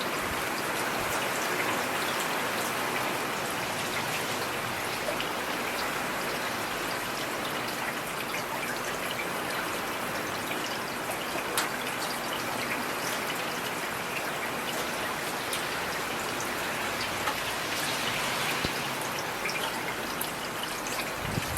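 Steady rain falling, with many individual drops ticking close by and one slightly louder drop a little past halfway. There is no thunder.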